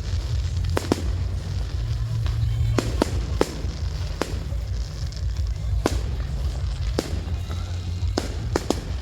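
Fireworks going off: about ten sharp bangs at irregular intervals over a constant low rumble.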